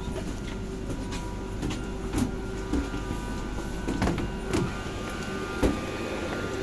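Steady electrical hum of a stopped electric commuter train, with several sharp knocks and footsteps as someone walks out of the carriage onto the platform. The sharpest knock comes a little past the middle.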